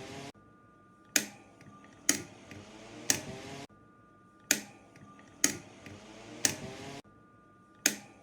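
Button clicks on a commercial electric fan's control panel, about one a second in runs of three. After each press the fan's airflow and motor hum build up, and the fan sound cuts off sharply twice.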